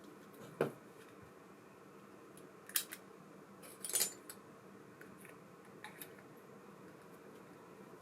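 A few sharp clicks and clinks of small reel parts or tools being handled, three louder ones spread out over several seconds with a few fainter ticks, over a faint steady room hum.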